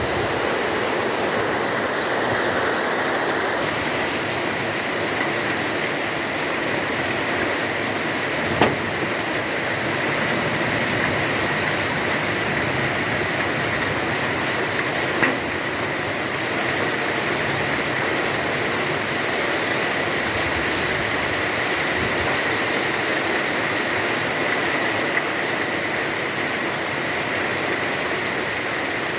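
Heavy rain pouring steadily, an even dense hiss of falling water, with a couple of sharp taps about nine and fifteen seconds in.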